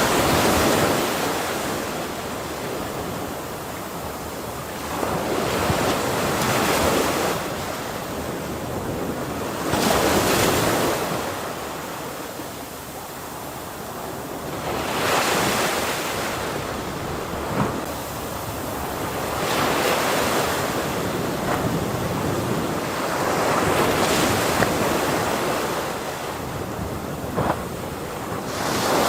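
Ocean waves breaking and washing on a shore, each surge swelling and fading every four to five seconds over a steady roar of surf, with a few brief splashes.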